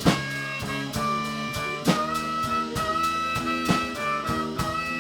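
Live band playing an instrumental passage between vocal lines: a horn, likely saxophone, holds a long note over a steady drum-kit beat.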